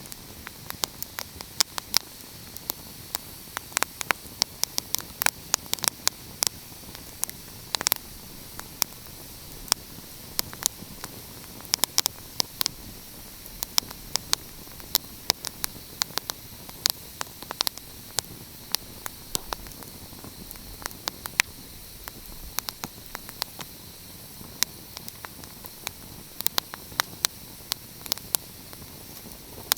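Wood fire crackling: a steady soft hiss with frequent sharp, irregular pops and snaps.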